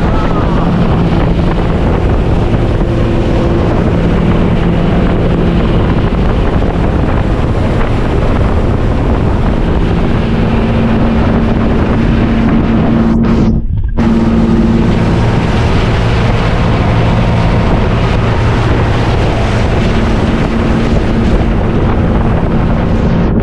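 Motorboat engine running underway, its low hum shifting pitch a few times, under heavy wind noise on the microphone.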